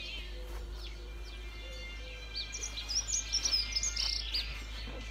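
Small songbirds chirping and singing, with a flurry of quick high chirps in the middle.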